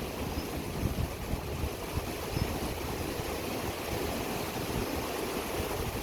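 Steady rushing of a small mountain river running high with monsoon water, an even wash of noise.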